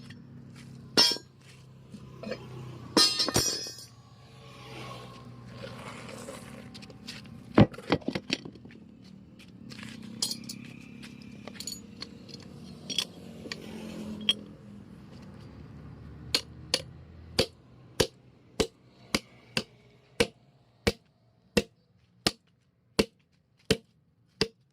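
Metal tools clinking and scraping during truck tyre puncture repair, over a low hum that stops about two-thirds of the way through. Then a hammer strikes steadily, about two blows a second.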